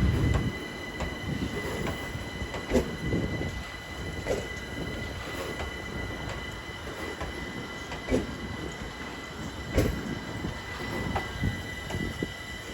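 London Overground Class 378 electric multiple unit pulling into the platform: a steady high-pitched whine over a low rumble, with a few sharp knocks from the wheels along the way.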